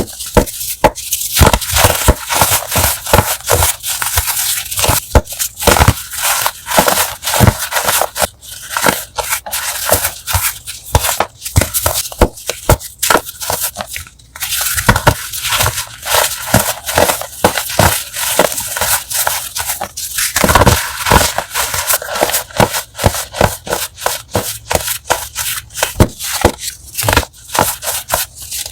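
Crunchy chalk blocks being crushed: a dense, irregular run of crisp crackles and crumbling crunches, with a short pause about halfway through.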